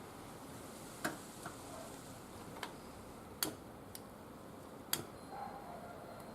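Wood fire burning in a barbecue grill: about six sharp crackles and pops at uneven intervals over a steady soft hiss.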